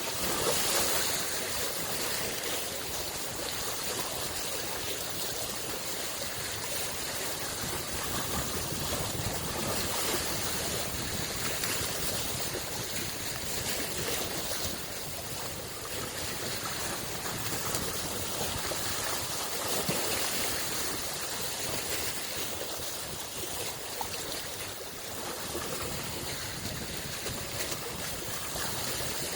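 Small lake waves lapping and washing against the shore, a steady wash that swells gently every few seconds.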